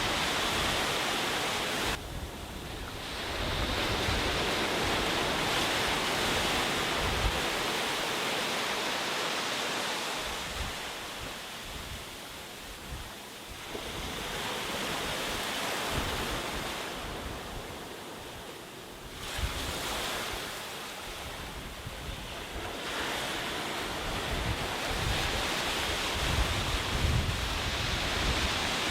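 Sea waves breaking on a beach: a steady wash of surf that swells and ebbs in slow surges every several seconds, dropping away suddenly about two seconds in and again past the middle. Wind buffets the microphone with a low rumble.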